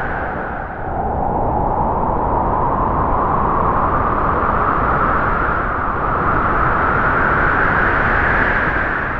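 Strong wind howling through trees: a steady rushing noise with a hollow howl. The howl sinks in pitch about a second in, climbs slowly over the next several seconds, and dies down near the end.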